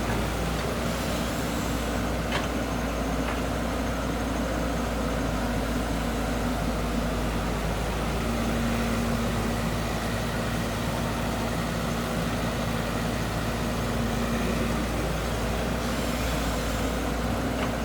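Heavy construction machine's engine running steadily, with a held low hum and a couple of faint clicks a few seconds in.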